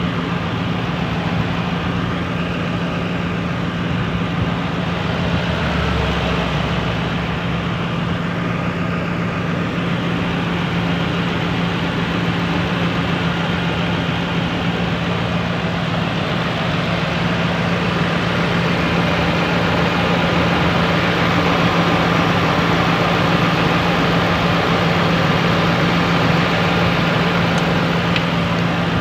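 Ford F-250 truck engine idling steadily.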